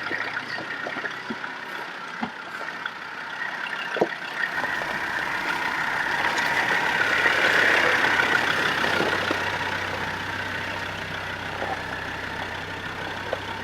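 Four-wheel-drive vehicle engine running as it drives over a rough off-road track, with a few knocks, one clear about four seconds in; the sound builds to its loudest around eight seconds in, then eases.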